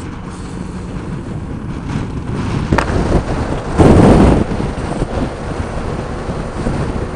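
Motorcycle on the move: steady engine and road noise with wind buffeting the microphone, and a loud gust of wind about four seconds in.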